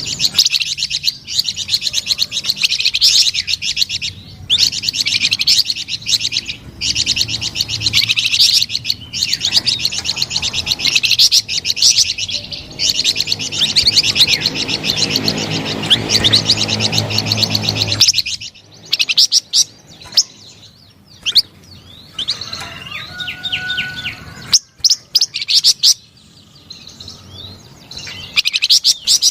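Songbird known to Indonesian birdkeepers as the flamboyan singing a fast, high, chattering song of rapid chirps and trills, almost without a break at first and then in shorter phrases with pauses. A low background rumble underneath stops about two-thirds of the way through.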